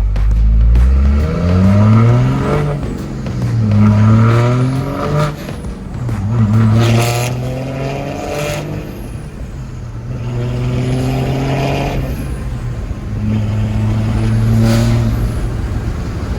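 Truck engine accelerating hard through several gear shifts, its pitch climbing and dropping back at each shift.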